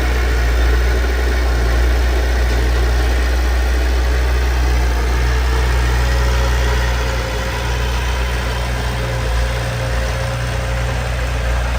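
Heavy diesel engine of a construction machine running steadily at a low idle, with a deep, even hum.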